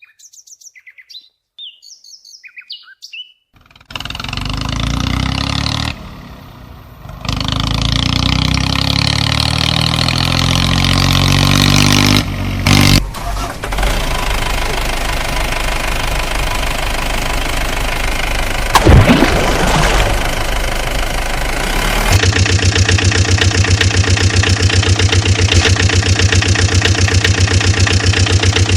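Faint bird chirps, then an engine starts about four seconds in and runs loudly, rising in pitch as it revs. Near the end it settles into a steady, fast, even chugging like an idle.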